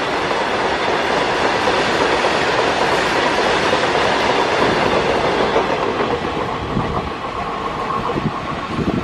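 BOXN open freight wagons rolling past, their wheels clattering over the rail joints in a steady clickety-clack. The sound eases a little over the last few seconds as the tail of the train goes by, with a few separate knocks.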